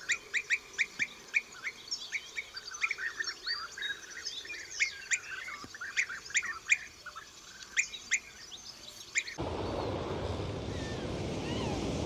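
European bee-eaters calling: short calls repeated rapidly, with several birds overlapping in the middle. About nine seconds in, it cuts abruptly to a steady rushing noise of open sea.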